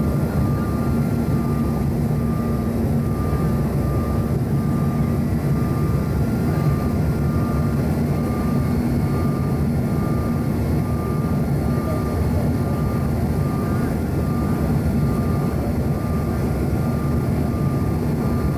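Cabin noise inside a Bombardier CRJ-900 airliner in flight: a steady roar from its rear-mounted turbofan engines and airflow, with a thin high whine that wavers evenly throughout.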